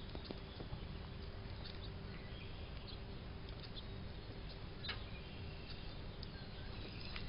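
Faint outdoor background noise through a phone's microphone, with a few faint, short, high bird chirps and scattered light clicks.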